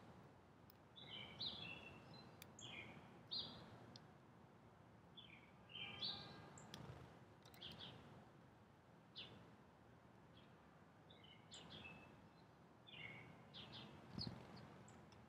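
Small birds at a feeder giving faint, short chirps, many of them at irregular intervals, over a low background rumble.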